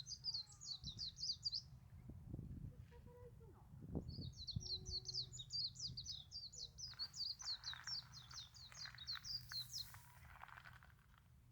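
A small songbird singing long, rapid runs of high chirping notes, about seven a second: one phrase ends about a second and a half in, and another starts about four seconds in and runs for nearly six seconds.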